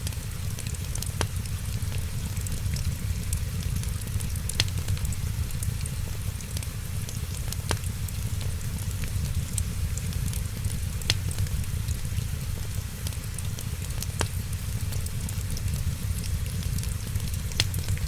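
Crackling wood fire: many small snaps and a sharper pop every few seconds over a steady low rush, with rain falling.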